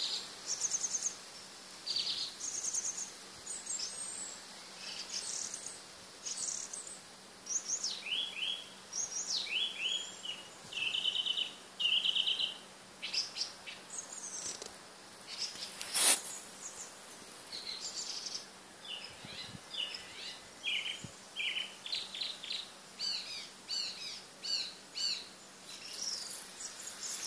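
Small birds singing and chirping, with many short, repeated phrases one after another. A single sharp click stands out about halfway through.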